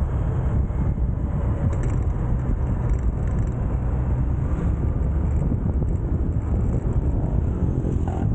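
Motorcycle riding at steady speed: the engine's steady running under heavy wind rush on the microphone.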